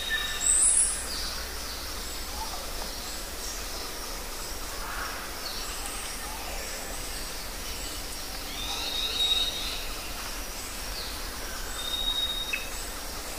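Several birds chirping and whistling over a steady background hiss, with a sharp high rising call about half a second in and short high whistles around the middle and near the end.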